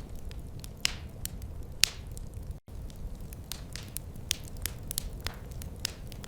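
Wood fire in a fireplace crackling, with irregular sharp pops over a low steady rumble. The sound cuts out completely for a split second about halfway through.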